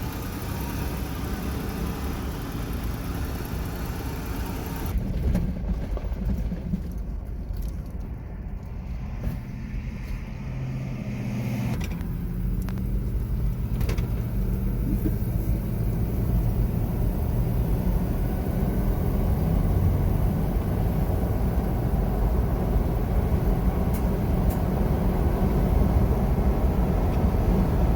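Toyota 4Runner driving, a steady low engine and road rumble that grows gradually louder.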